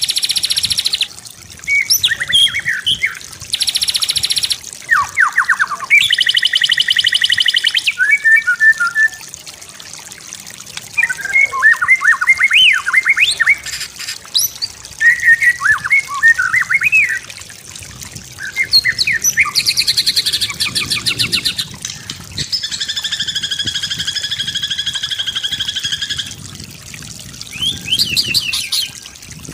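White-rumped shama (murai batu) singing a varied song: quick runs of clear whistled notes alternating with long harsh, buzzy rattling phrases.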